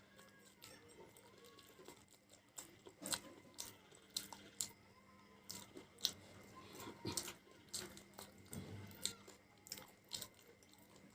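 A person chewing and biting food close to the microphone: irregular crunches and wet mouth clicks, several a second, some louder bites in between.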